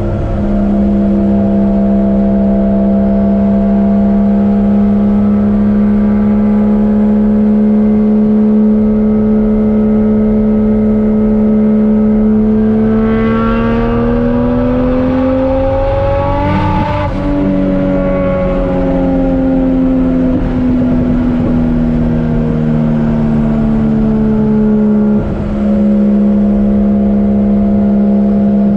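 Turbocharged 1JZ-GTE VVTi straight-six engine of a Nissan 240SX running steadily under way. Its pitch rises smoothly for a few seconds to a peak just past the middle, then falls back slowly, with a short break near the end before it settles at its earlier steady note.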